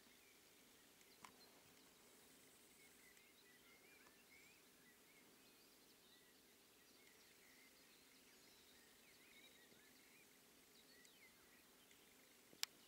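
Near silence with faint birdsong: many short, scattered chirps. A soft tick comes about a second in, and a sharp click near the end is the loudest sound.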